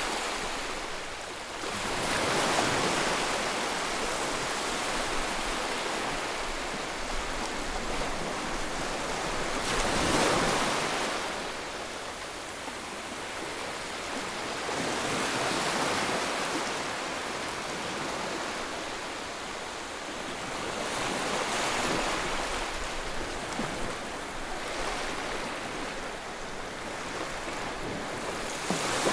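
Ocean waves breaking and washing on a shore: a continuous surf rush that swells and recedes every six seconds or so, the biggest wave about ten seconds in.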